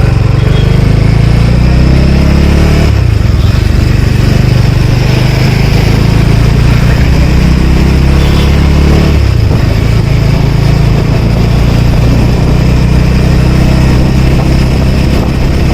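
Bajaj Dominar's single-cylinder engine running under way, freshly filled with fully synthetic 10W-50 oil; the engine note breaks and changes briefly twice, about three and nine seconds in.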